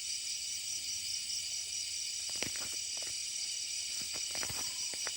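A steady, high chorus of insects such as crickets trilling in the rainforest, with a few faint ticks or rustles on top.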